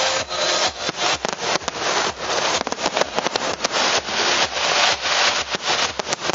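Fireworks going off in a dense, continuous crackle of many rapid pops, with louder cracks scattered through.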